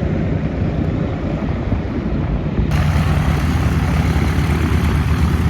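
Douglas DC-3's propeller engines running in a steady low drone, getting louder and brighter about halfway through.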